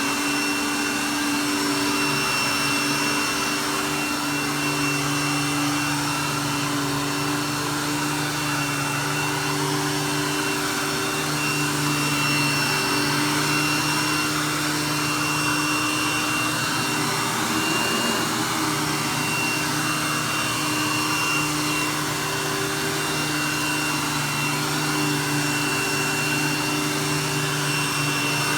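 Vacuum cleaner running steadily as it is pushed slowly over carpet, its motor giving a steady high whine over the rush of air.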